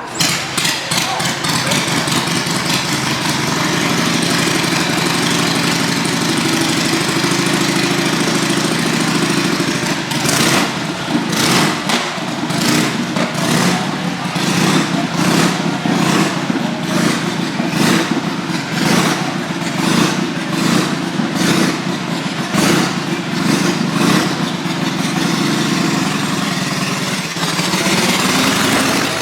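Motorcycle engine running as the bike rides up and circles the Wall of Death. From about ten seconds in, the sound swells and fades in a steady rhythm as the bike passes round the wall.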